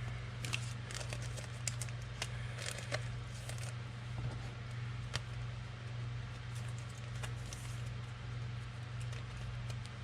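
Football trading cards and their packs being handled and flipped through: light, irregular clicks and crinkles over a steady low hum.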